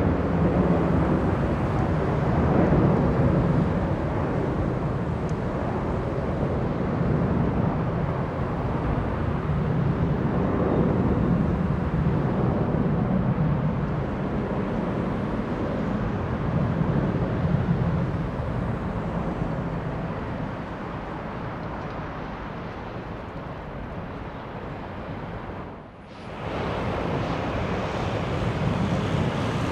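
Airbus A330-200 freighter's jet engines, a steady low rumble that slowly fades. About 26 seconds in, the sound cuts out for a moment and another jet's engine noise, from a Boeing 737-800 freighter, takes over.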